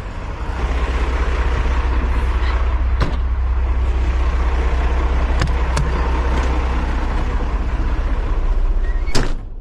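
Heavy wrecker's engine running hard, with a steady low rumble, while its winch pulls a stuck bucket truck back; a few sharp clicks, then a louder crack just before the sound stops abruptly near the end.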